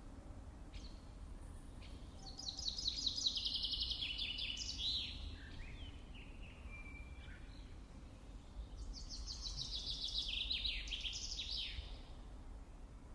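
A songbird singing two song phrases, each about three seconds long: a fast run of high notes falling in pitch, with a pause of a few seconds between them.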